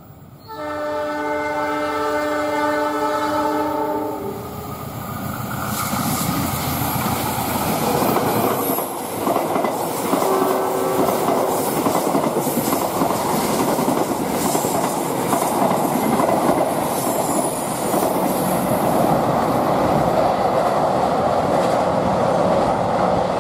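A train horn sounds one long, steady chord for about three and a half seconds. Then an Indonesian passenger train passes close by: a steady rumble with the rapid clickety-clack of its wheels over the rail joints.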